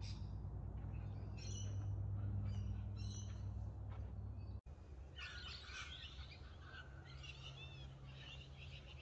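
Wild birds chirping and calling, a scatter of short, high calls that grows busier in the second half, over a steady low hum.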